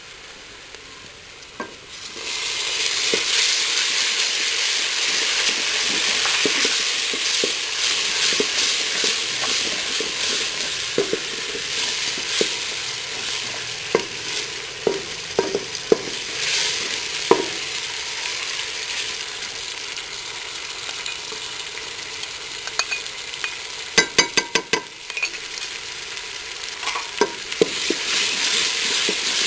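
Onions and tomatoes sizzling as they fry in an aluminium pot, stirred and scraped with a wooden spoon, with scattered knocks of the spoon against the pot. The sizzle gets much louder about two seconds in, and a quick run of sharp taps comes late on.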